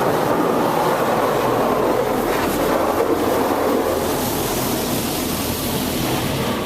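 Touch-free automatic car wash spraying high-pressure water and solution onto the car body, heard from inside the car as a steady rushing hiss and rumble. It eases a little in the second half.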